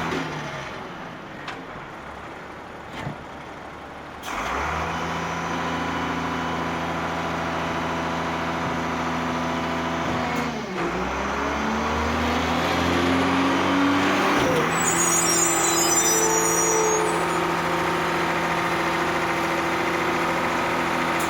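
A motor vehicle's engine running close by, getting louder about four seconds in, its pitch dipping and rising again around ten seconds in.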